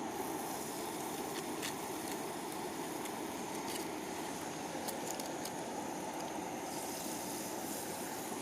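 Steady rush of flowing river water, with a few faint light clicks over it.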